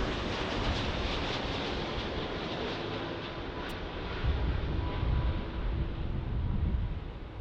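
Jet airliner engines passing by, a steady rushing noise that fades away over several seconds. Wind gusts buffet the microphone in the second half.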